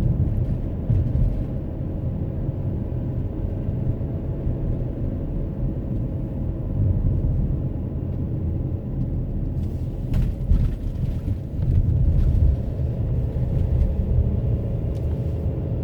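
A car driving on the road, heard from inside the cabin: a steady low rumble of road and engine noise, with a short louder stretch and a few faint knocks about ten seconds in.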